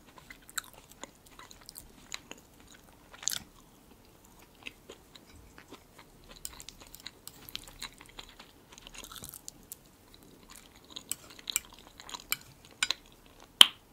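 Close-miked chewing of soft, moist herring-under-a-fur-coat salad (layered beetroot salad), with wet mouth noises and scattered sharp clicks; the loudest click comes near the end.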